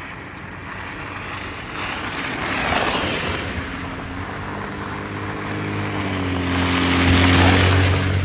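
City traffic passing on a wet, slushy street: a rush of tyre hiss swells and fades about three seconds in. A second vehicle with a low engine drone comes up and passes louder near the end.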